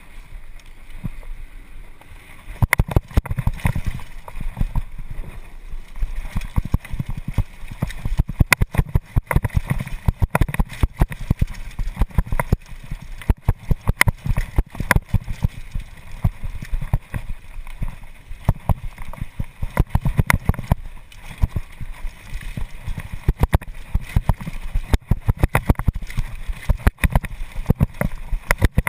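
Mountain bike clattering down a rough downhill trail: constant irregular sharp clacks and rattles over a low rumble.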